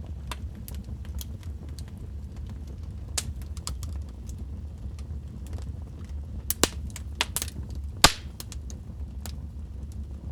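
Wood fire crackling in a fireplace: a steady low rumble of burning under irregular sharp snaps and pops, with a cluster of louder pops past the middle and the loudest single pop about eight seconds in.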